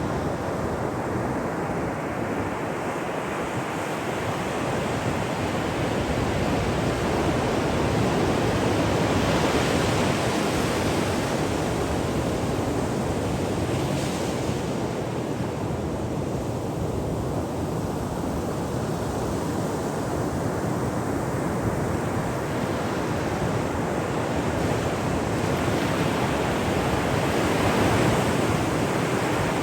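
Ocean surf breaking on a shore: a continuous wash of water that swells louder several times as waves break, most strongly near the end.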